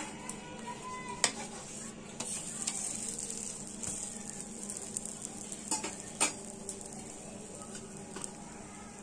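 Batter-based garlic paratha sizzling on a flat griddle (tawa) in a steady hiss, with a metal slotted spatula scraping and tapping the pan a few times as the paratha is flipped and pressed down.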